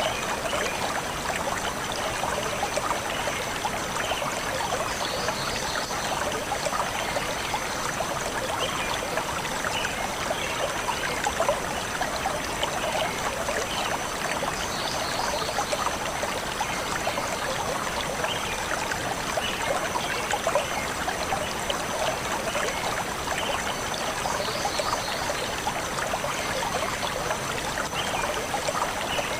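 Shallow forest stream flowing steadily over stones, a continuous rushing and trickling.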